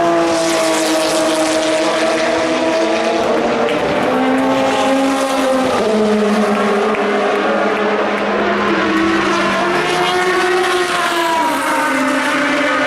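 Endurance race cars' engines running hard past the track, several at once, their pitch stepping up and down through gear changes.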